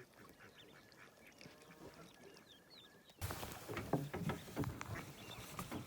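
Waterfowl calling on open water, with short quacking and honking calls. About three seconds in, the sound turns suddenly louder, with a hiss and a denser run of calls.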